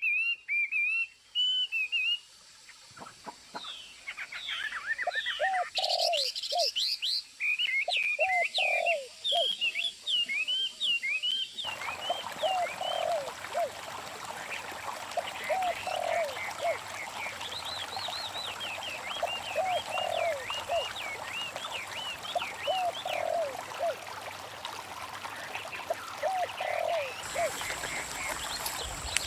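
Natural outdoor ambience of many small birds chirping, with a lower call repeating every second or two. The background changes abruptly several times, as at edits between recordings.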